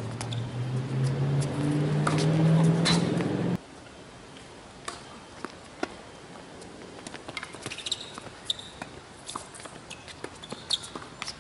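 A vehicle engine running and rising slowly in pitch as it speeds up, which cuts off abruptly about three and a half seconds in. After that come scattered sharp tennis-ball hits off rackets and the hard court, with a few short sneaker squeaks.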